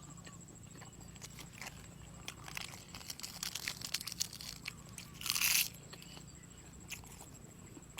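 Close-miked eating of soy-marinated seafood: scattered wet clicks of chewing and biting, a stretch of crunching, and one short louder crunch a little past five seconds in.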